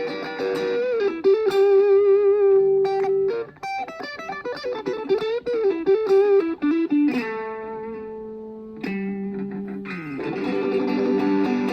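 Washburn Sonamaster electric guitar played solo. Long single notes are held with vibrato and bent in pitch, then fuller chords come in near the end.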